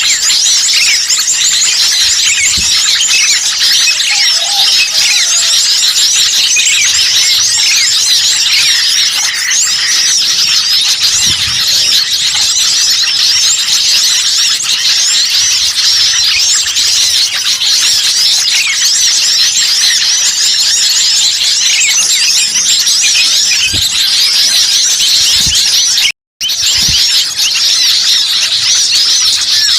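A dense chorus of many small songbirds chirping and calling at once, rapid and high-pitched without a break. It is an agitated mixed flock as used in bird-lure recordings to draw in wild birds. The sound drops out for a split second about 26 seconds in.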